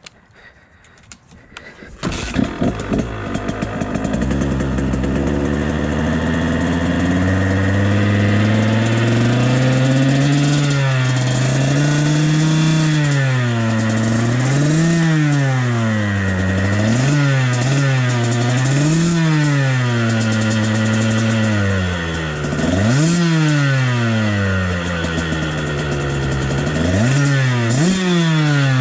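KTM dirt bike engine firing up about two seconds in and settling briefly, then revved up and down again and again, its pitch climbing sharply and falling back.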